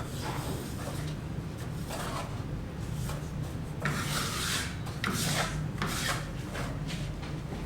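Irregular scraping strokes of varying length, the longest about four seconds in, over a steady low hum.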